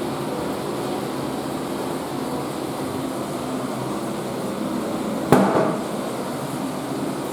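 Western-style flush toilet refilling: a steady rush of running water, with a single sharp click about five seconds in.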